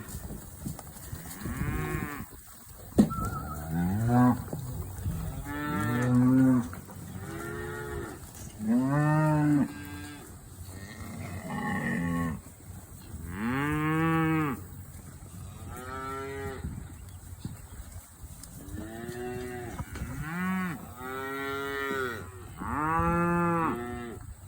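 Cows and calves mooing again and again, a dozen or more separate calls, some long and some short, from several animals. A sharp click about three seconds in.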